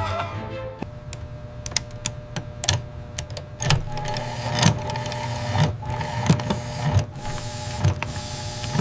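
A small motor whirring steadily, with scattered clicks and knocks over it.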